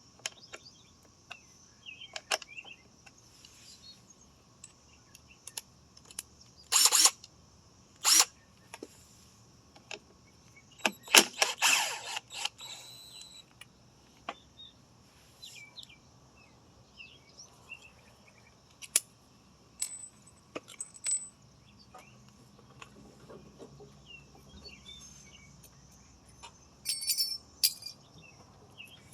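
Intermittent metal clinks and clatters from handling a lawn mower and its parts, with a few louder rattling bursts about 7 and 8 seconds in, again around 11 to 12 seconds, and near the end. A faint steady high hum runs underneath. The engine does not start.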